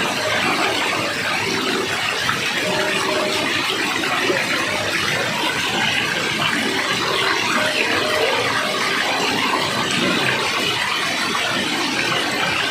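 Steady rush of flowing water, a continuous even wash without breaks.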